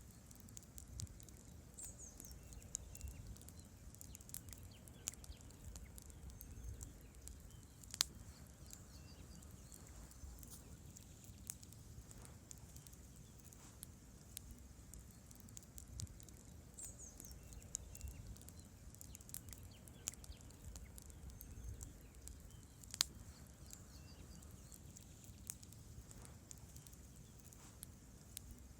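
Wood campfire burning: irregular sharp crackles and pops over a low steady rumble of the flames, two pops standing out. Faint high chirps come twice.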